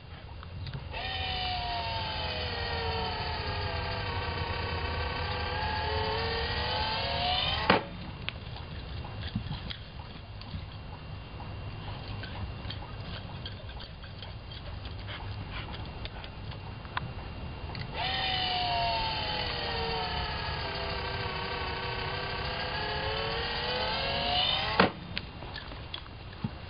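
GoDogGo automatic ball launcher's motor whining through two launch cycles: in each, the pitch sinks and then climbs again for several seconds before a sharp knock as the ball is thrown, and the whine cuts off at once.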